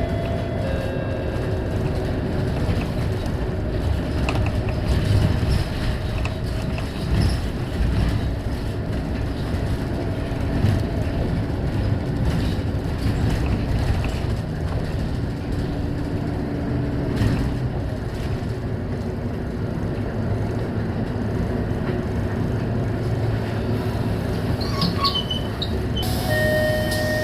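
Scania K230UB single-deck diesel bus running, a steady low rumble with light rattles. Near the end a steady tone comes in over it.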